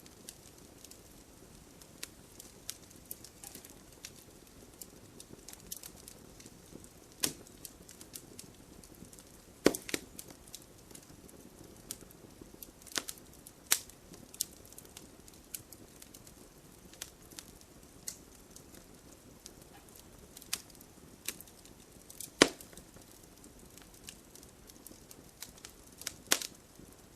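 Wood fire burning in a fireplace: a low steady hiss with frequent sharp crackles and pops at irregular intervals, the loudest snaps about ten seconds in and again about twenty-two seconds in.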